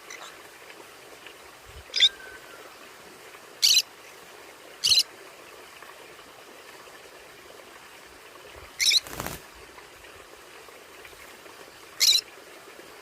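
Conures calling: five short, sharp, high-pitched calls spaced out over several seconds, over a steady background hiss. A brief noisy burst follows just after the fourth call.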